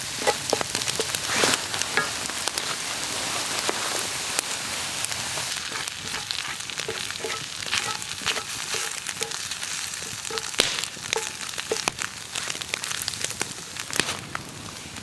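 Food sizzling and frying in a pan over a campfire: a steady hiss broken by frequent sharp pops and crackles, easing slightly about halfway through.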